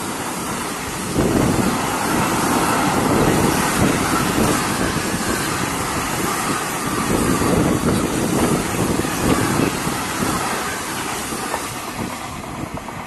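A freight train's mostly empty container flat wagons rolling past on the rails: a steady loud rumble and clatter of wheels that eases off as the last wagon goes by near the end.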